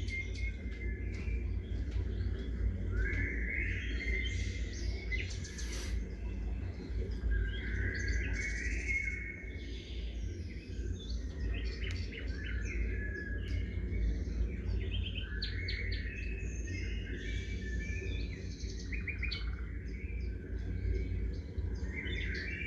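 Many small songbirds chirping and trilling, with calls overlapping throughout, over a steady low rumble.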